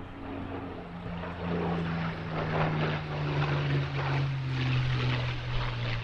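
Spitfire Mk IX's Rolls-Royce Merlin 63 engine flying past, its note dropping in pitch as it goes by and growing a little louder in the middle.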